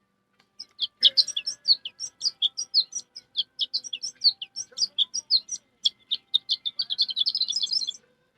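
A person imitating a songbird's song with a mask on: a long, fast run of short high chirps that packs into a quick trill near the end.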